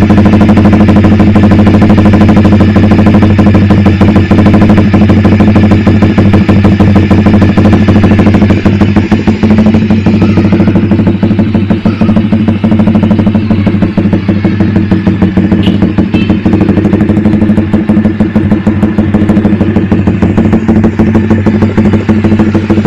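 150 cc single-cylinder motorcycle idling steadily through a Pro Liner TR1 racing exhaust with no dB killer fitted, so the exhaust note is loud and open.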